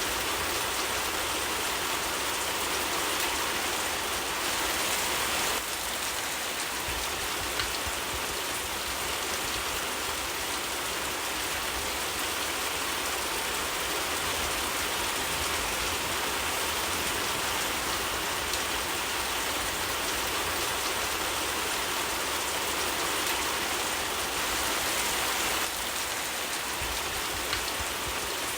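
Steady rain falling and pattering on a surface, an even, dense hiss with no let-up. A single sharp tick stands out about eight seconds in.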